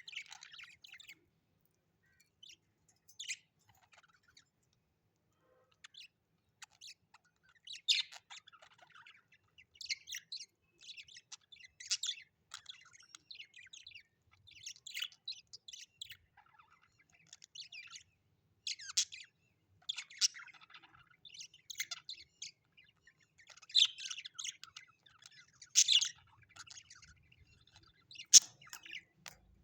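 Birds chirping and calling in short repeated bursts of high twittering notes. A sharp click sounds near the end.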